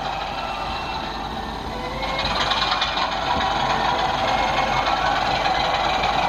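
OO gauge model train running on the layout: a steady mechanical hum and rattle of motor and wheels on track, growing louder about two seconds in.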